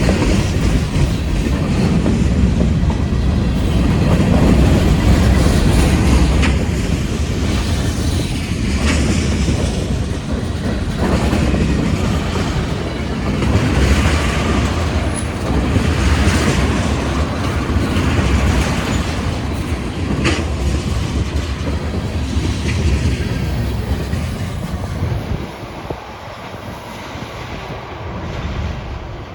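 CSX freight train rolling past: a steady heavy rumble of the cars on the rails with occasional sharp clicks from the wheels, fading near the end as the train moves away.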